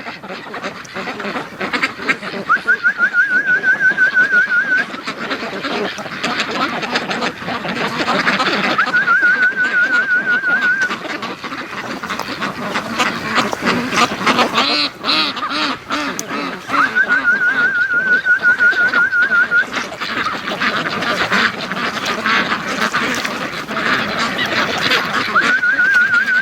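A flock of Pekin ducks quacking loudly and without a break. A high, fast-wavering trill comes in four times over it, each lasting two or three seconds.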